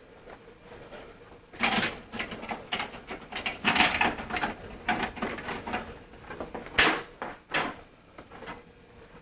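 Irregular knocking, clicking and rustling of things being handled and moved about, starting about a second and a half in, with two sharper knocks near the end.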